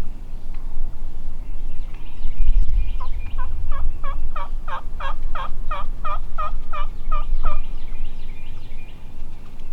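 A series of about sixteen turkey yelps, roughly three or four a second, building up and then easing off, over a low rumble of wind.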